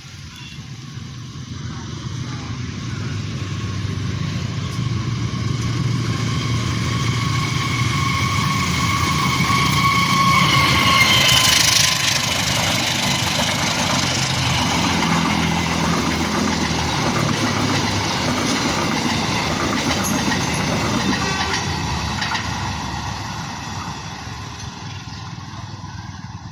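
A train approaching and passing, its diesel engine rumbling low as it builds to loudest about halfway, then fading gradually near the end. A steady high-pitched tone rides over it and cuts off at the loudest point.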